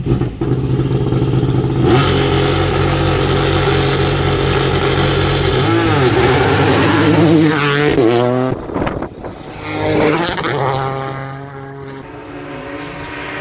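Rally car engine at high revs on a tarmac stage, held for several seconds, then falling and climbing in pitch through gear changes. It cuts off sharply about two-thirds of the way through, then climbs again and fades away.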